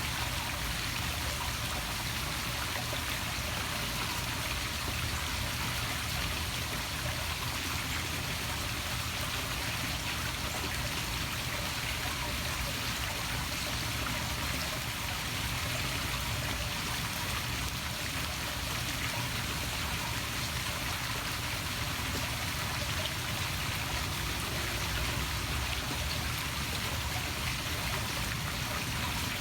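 Water from a poolside waterfall splashing steadily into a swimming pool, an even continuous rushing and trickling.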